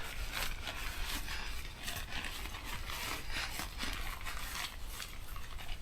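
Faint clinks, scrapes and rustles of camping gear being handled while a tarp camp is set up, over a low wind rumble on the microphone.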